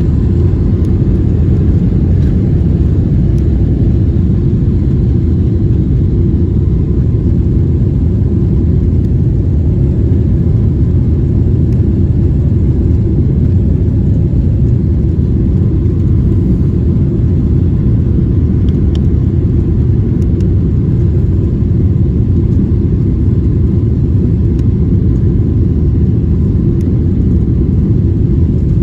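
Jet airliner cabin noise during takeoff: a loud, steady low rumble of engines and airflow with a faint hiss above it, unchanging throughout.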